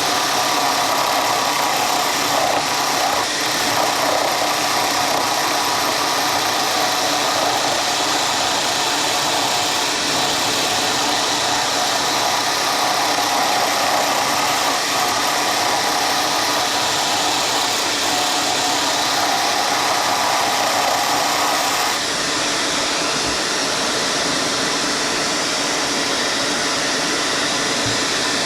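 A woodworking power tool's motor running steadily with a loud even whir and hum; the sound drops slightly about 22 seconds in.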